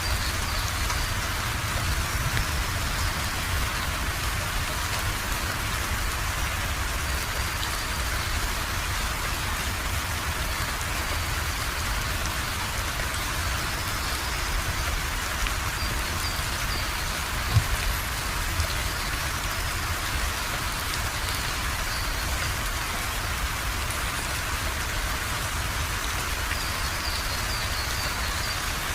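Steady rain falling and pattering on a surface, with one brief louder thump about two-thirds of the way through.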